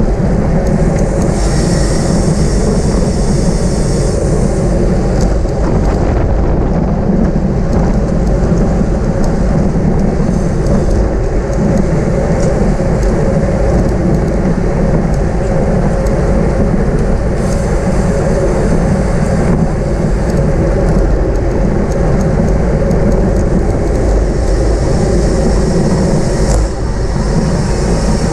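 Steady, loud wind rush on the microphone of a camera riding with a bicycle in a criterium race. There are a few stretches of brighter hiss, near the start, in the middle and near the end.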